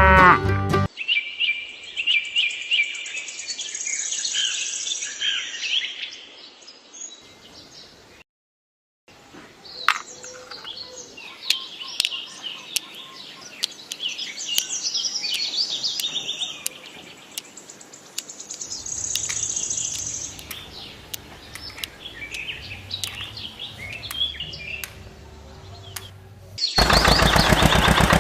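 Small birds chirping and twittering, with occasional sharp clicks, broken by a brief dropout about eight seconds in. Near the end a loud, dense noise cuts in abruptly.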